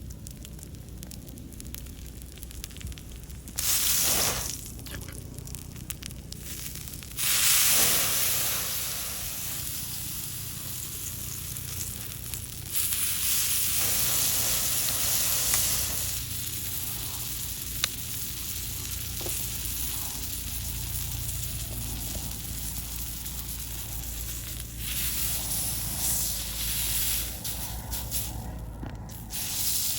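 Steak sizzling over a wood fire, the sizzle swelling louder several times.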